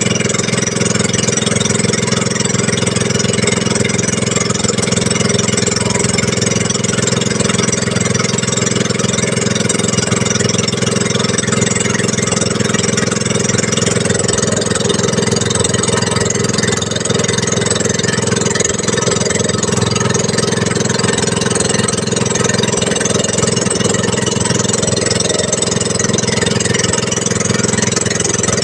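A small engine running steadily at an even speed, a constant drone with no revving.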